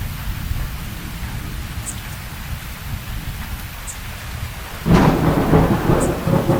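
Steady rain with a low rumble underneath; about five seconds in, a thunderclap breaks out suddenly and rolls on loudly.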